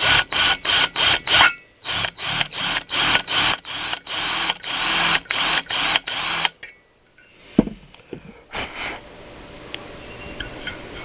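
Electric drill run in short pulses, about four a second, as a larger bit enlarges a pilot hole in the exhaust port wall of a 1983 Yamaha Tri-Moto 175 two-stroke cylinder. It stops about six and a half seconds in, and a couple of sharp knocks follow.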